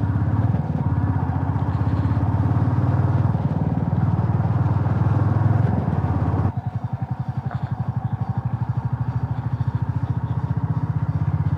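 Motorcycle engine running steadily under way, with a fast, even pulsing beat; the engine sound drops suddenly about two-thirds of the way through and carries on more quietly.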